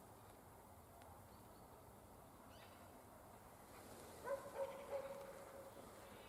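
A faint dog barking a few times in quick succession about two-thirds of the way in, the last bark drawn out into a short howl, over the near-silent hush of a snowy wood.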